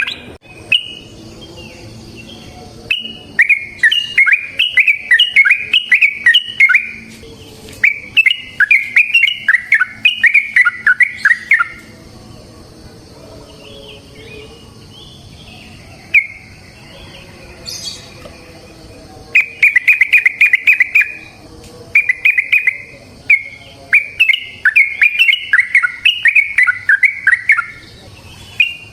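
Yellow-vented bulbul (trucukan) singing in bursts of fast, bubbling chattering notes, each burst lasting a few seconds, with a quieter stretch of softer calls in the middle.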